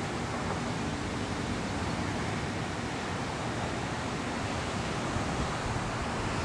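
Steady wind rushing, with low rumbling buffets on the microphone.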